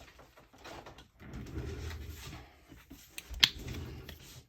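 Craft supplies being handled on a work table: irregular rustling and soft knocks, with one sharp click about three and a half seconds in.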